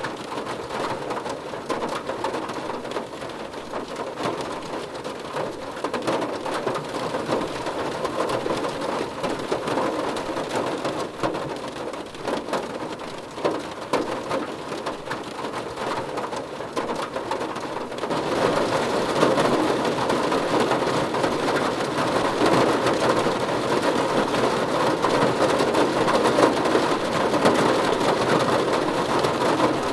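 Steady rain falling and pattering on surfaces. It becomes louder and brighter about eighteen seconds in.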